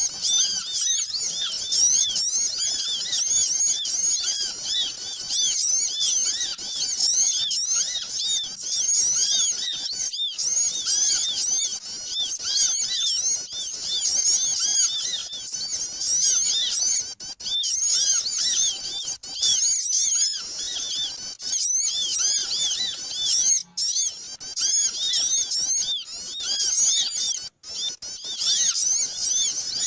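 Recorded bird-lure (pikat) audio: a noisy, crowded chatter of many small birds chirping at once, quick high chirps overlapping almost without pause, broken only by a few very brief gaps.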